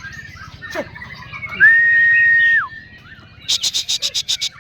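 White-rumped shama (murai batu) songbird singing, with other bird notes around it. About halfway there is one loud, long whistled note held at one pitch, and near the end a fast run of about nine sharp chattering notes.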